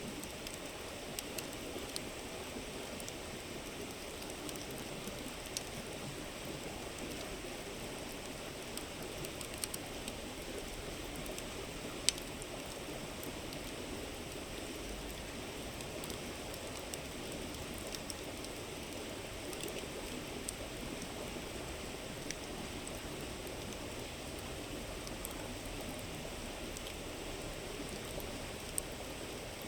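River flowing steadily, with a wood campfire crackling over it in scattered sharp pops, the loudest about twelve seconds in.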